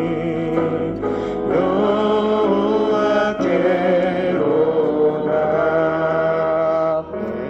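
A singer holds long, wavering notes of a Korean praise song over a sustained instrumental backing. The music drops in level about seven seconds in.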